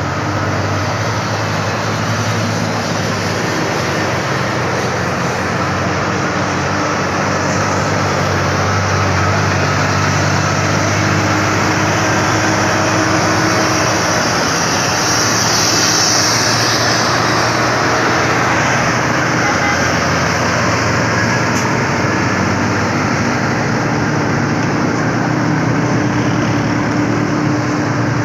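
Heavily loaded ten-wheel truck's engine pulling up a steep slope, a steady low drone with road noise. A brief hiss comes in about halfway through.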